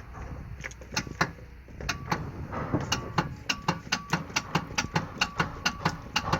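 Bobcat 843 skid steer's starter solenoid clicking repeatedly as the key is turned, without the engine cranking. The clicks are spaced out at first, then come about four a second. The owner takes this for a failed starter.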